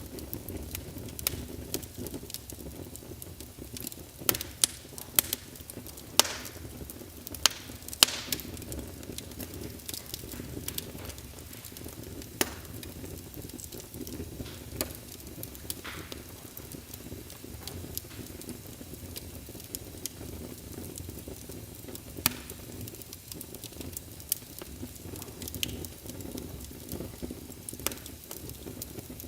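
Wood fire burning in a fireplace: a steady low rumble of flames with irregular sharp crackles and pops, busiest for a few seconds early on.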